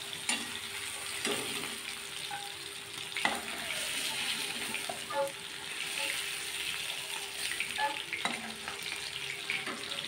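Prawns sizzling in hot mustard oil in a metal kadai, a steady frying hiss. A metal spatula scrapes and clacks against the pan several times as the prawns are lifted out.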